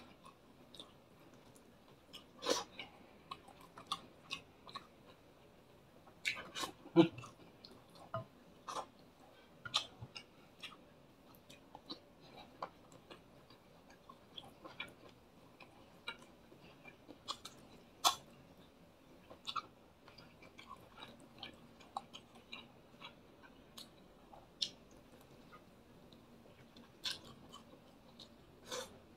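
A person chewing a mouthful of fried fish and rice eaten by hand, heard close up as irregular short clicks, one or two a second.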